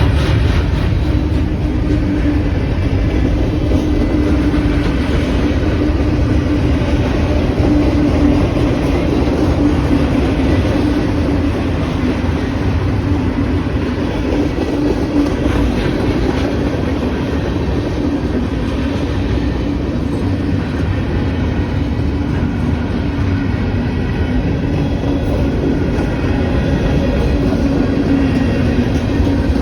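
Freight train rolling steadily past over a road crossing, a continuous rumble of wheels on rail.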